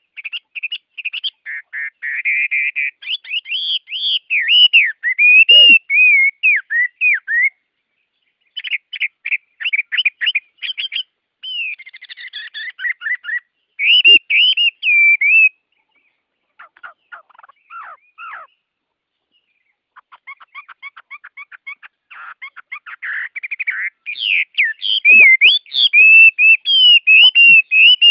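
Songbirds singing: loud whistled warbling phrases and rapid trills, broken by short pauses, with brief silences about eight and nineteen seconds in.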